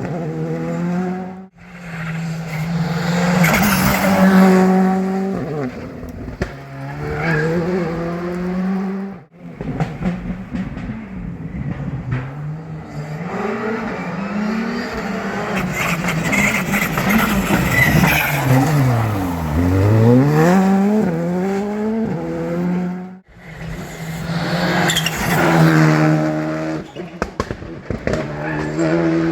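Rally cars driven flat out on a special stage, in several short clips cut together: engines held at high revs with rapid shifts up and down in pitch, and one deep drop and climb in engine pitch about two-thirds of the way through.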